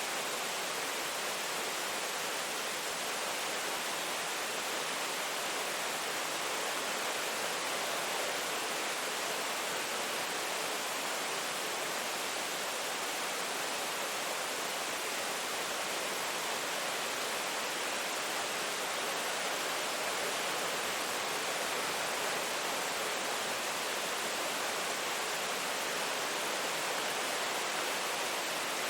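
Steady rain: an even hiss that never changes, with no separate drops or thunder standing out.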